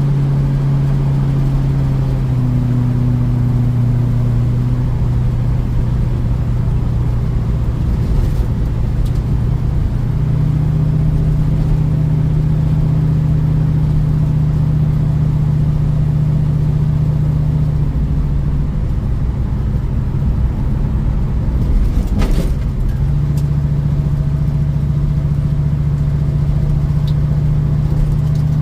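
1972 Ford Mustang Mach 1's V8 with a Crane 2040 cam, running through a single 3-inch exhaust with a Black Widow Race Venom muffler while driving, really loud. The engine note holds steady, stepping down and back up several times as the speed and gears change, with a brief click about 22 seconds in.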